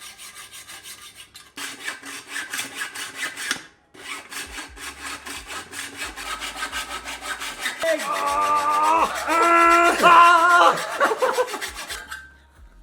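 Hacksaw cutting through a metal exhaust pipe by hand, a steady run of quick back-and-forth strokes with a short pause about four seconds in. About two-thirds of the way through, a pitched squealing tone rises over the strokes for a few seconds.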